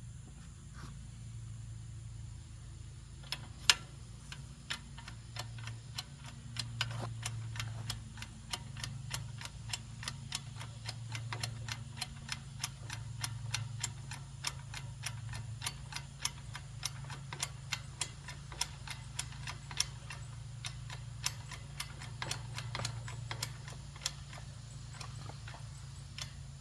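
Hand-pumped hydraulic bottle jack of a manual log splitter being worked: a long run of sharp clicks, a few a second, as the pump handle is stroked. One loud click comes a few seconds in, over a steady low hum.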